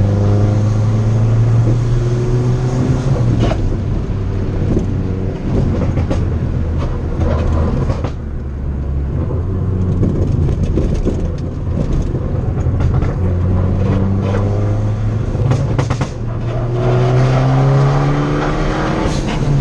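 Turbocharged 1.4-litre four-cylinder of a tuned Fiat 500 Abarth under hard acceleration, its revs climbing and falling several times through the gears. Sharp crackles and pops come from the exhaust each time the throttle lifts, from a tune set up for pops and bangs.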